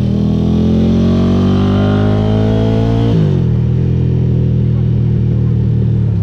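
Ducati GT1000's air-cooled L-twin engine through Termignoni exhaust pipes, accelerating with a rising pitch for about three seconds, then the revs drop sharply and it runs on steadily at a lower pitch.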